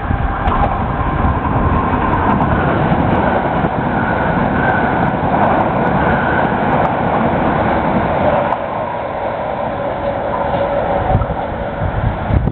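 SNCB train running by on the track: a loud, steady rumble with a faint whine over it, easing slightly about two-thirds of the way through.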